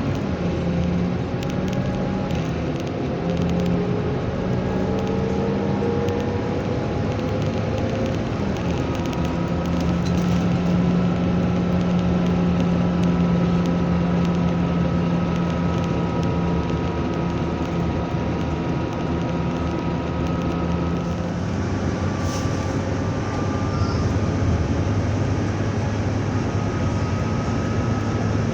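Scania Enviro 300 single-deck bus under way, heard from on board: a steady engine drone whose note rises over the first several seconds, then holds a steady pitch before shifting about twenty seconds in. A brief click comes shortly after that.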